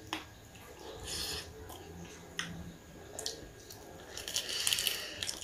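A person chewing food, with scattered short mouth clicks and smacks and a busier run of them about four seconds in.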